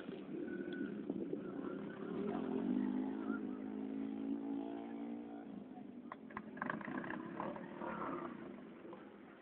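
A motocross bike's engine running with a steady note for a few seconds, then dying away, followed by a few sharp clicks.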